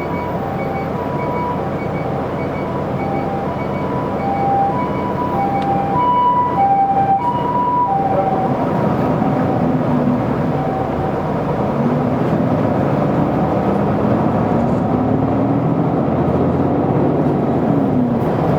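Inside an Isuzu Erga city bus: an emergency vehicle's two-tone hi-lo siren alternates over the engine, growing louder and then stopping about eight seconds in. After that the bus's diesel engine runs under load, its pitch rising and falling as it accelerates through the gears.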